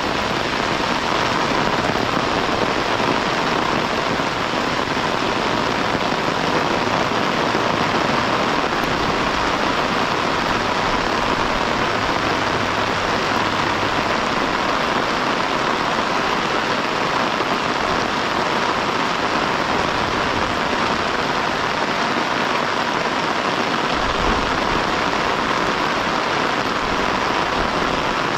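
Heavy rain falling steadily, a dense, even hiss that neither builds nor eases.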